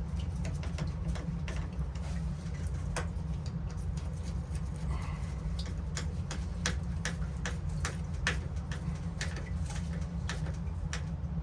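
Steady low hum with scattered, irregular light clicks and taps of hand work on plumbing parts.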